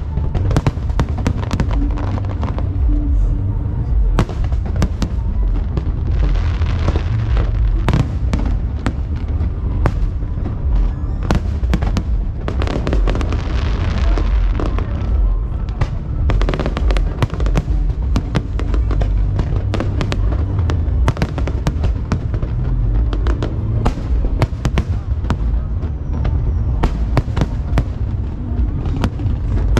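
Aerial fireworks display: a dense, continuous run of sharp bangs and crackles over deep low booms from bursting shells, with hissing, crackling swells about six and thirteen seconds in.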